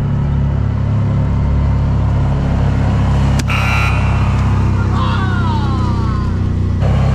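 Car engine running steadily at low speed. About three and a half seconds in there is a sharp click and a short high tone, then a few falling whistle-like tones.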